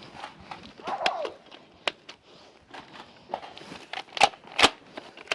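Footsteps and rustling with a run of sharp clicks and knocks; the two loudest come about four seconds in, half a second apart. A brief vocal sound is heard about a second in.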